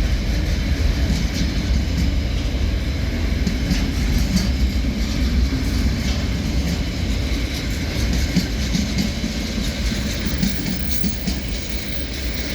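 Train hauled by KiwiRail DL-class diesel locomotives moving past, a steady low rumble with wheel clicks over the rail joints.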